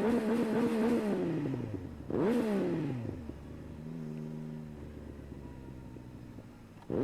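Motorcycle engine revving: it climbs in pitch, holds for about a second and winds down, then revs up sharply again about two seconds in and falls away to a lower, steady run.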